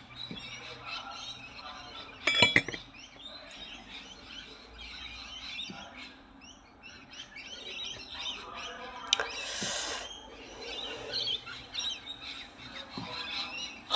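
Small birds chirping in the background, with a short clatter about two and a half seconds in and a brief hiss near ten seconds.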